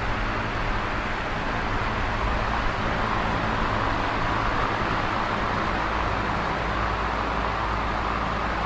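Electric fan running steadily: an even whooshing of moving air over a low motor hum.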